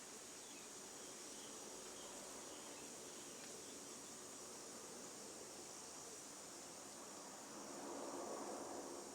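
Faint outdoor nature ambience: a steady high insect drone. A soft swell of lower noise comes about eight seconds in.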